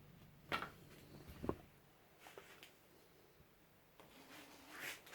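A few light clicks and knocks, the two sharpest in the first second and a half and fainter ticks later, from a small model locomotive being handled and set on its track.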